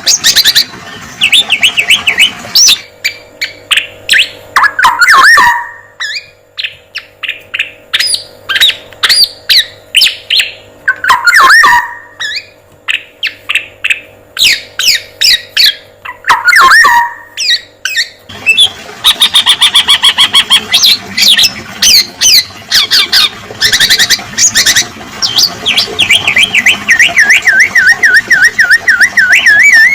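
Recorded songbird calls from a masteran track for training a male black-naped oriole (kepodang emas): rapid runs of sharp chirps, with a loud downward-sweeping call about every five to six seconds. The recording switches abruptly about three seconds in and again at eighteen seconds, with a faint steady hum under the middle stretch and a wavering trill near the end.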